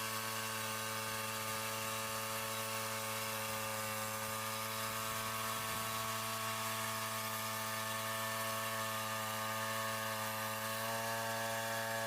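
Frontier OS27 portable sawmill running at a steady speed, a constant machine hum made of several held tones with a hiss above them; it cuts off suddenly at the end.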